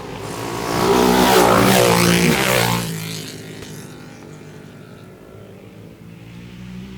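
Racing motorcycle passing close at full speed. Its engine note is loudest about one to three seconds in, then drops in pitch and fades away. Another engine grows louder near the end.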